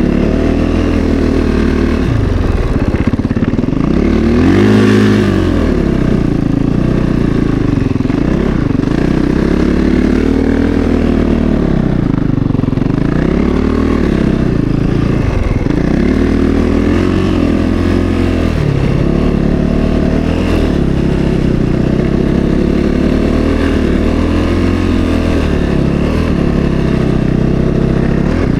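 450cc single-cylinder four-stroke snowbike engine under way, its revs rising and falling again and again as the throttle is opened and eased; the biggest rev-up comes about five seconds in.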